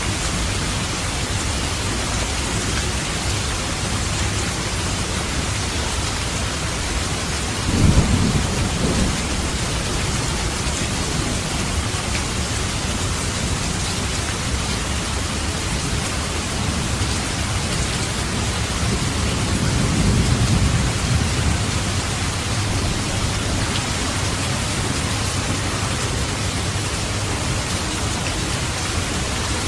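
Steady rain falling, with thunder twice: a sudden clap about eight seconds in, and a slower, longer rumble that swells and fades around twenty seconds in.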